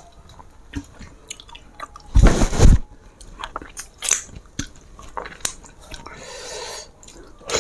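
Close-up eating sounds of a meal of rice and fish curry eaten by hand: chewing, smacking and scattered small clicks. A loud, brief burst a little after two seconds in.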